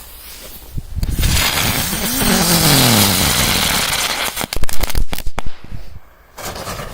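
A firework burning with a loud hiss that starts about a second in, with a falling tone partway through, then a quick run of sharp cracks and bangs, the loudest about five seconds in.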